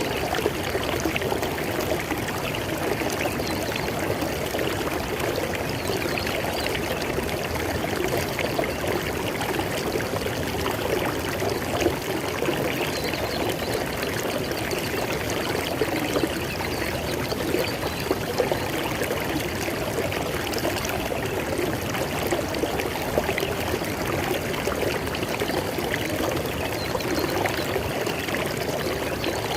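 River water flowing steadily over stones, a constant rushing and splashing without pause.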